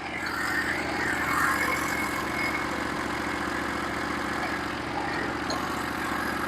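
The engine of a Norwood HD36v2 portable bandsaw mill running steadily at idle, not cutting.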